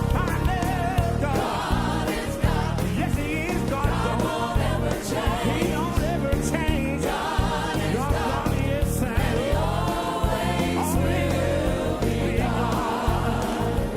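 Gospel music: a choir singing over instrumental backing with strong, changing bass notes.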